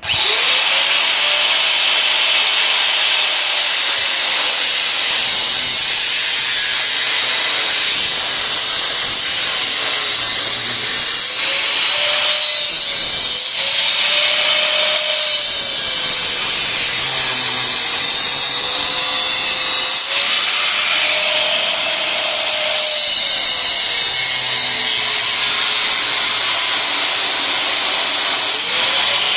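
Handheld electric grinder working on the steel frame: a loud, harsh, continuous sound that starts abruptly. Its motor whine sags and recovers several times as it is pressed into the metal, then begins to wind down at the very end.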